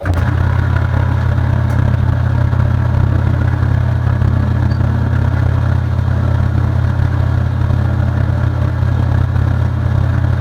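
A motor-driven workshop machine switches on abruptly and runs steadily at a constant speed, with a strong low hum.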